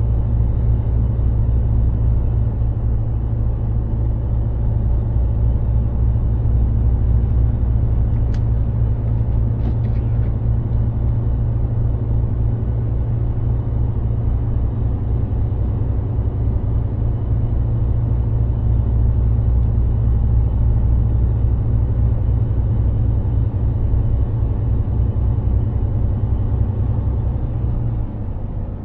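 Mercedes-Benz Actros 2763 truck's diesel engine running steadily at cruise, a deep low drone with road noise, easing off slightly just before the end.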